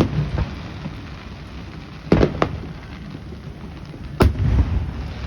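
Aerial fireworks shells bursting: a sharp bang at the start, two bangs in quick succession about two seconds in and another about four seconds in, each followed by a low rumbling echo.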